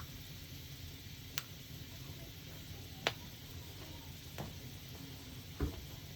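Wood fire crackling: four sharp, separate pops, one every second or so, over a steady low noise.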